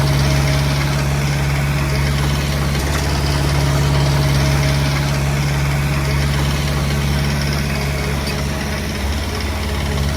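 Heavy-equipment diesel engine running steadily at low revs, with a constant low hum that eases slightly near the end.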